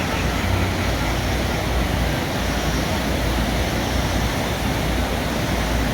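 Steady outdoor rushing noise with an uneven low rumble underneath, with no distinct event standing out.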